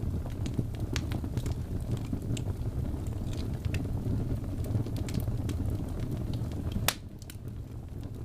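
Wood fire crackling in a fireplace: a steady low rumble with scattered sharp pops and snaps, one louder pop about seven seconds in.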